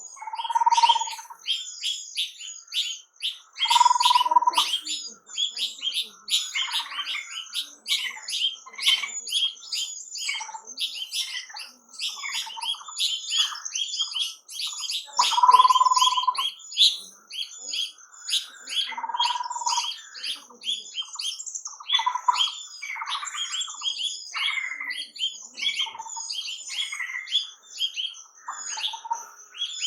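A dense chorus of songbirds chirping rapidly and continuously, with a louder, lower held note coming in every few seconds.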